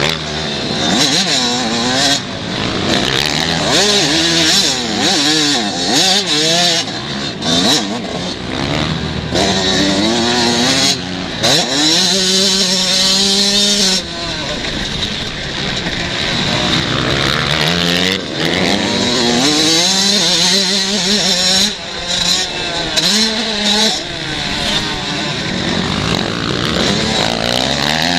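Several 125 cc motocross bikes racing, their engines revving up and down through gear changes, with many bikes overlapping.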